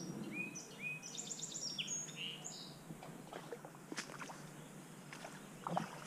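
A songbird sings one quick phrase of short whistled notes, two lower upswept notes then a fast run of higher ones, over the low steady rush of a small creek. After it come scattered light clicks and rustles, with a louder knock near the end, from the angler moving through bankside brush with a spinning rod.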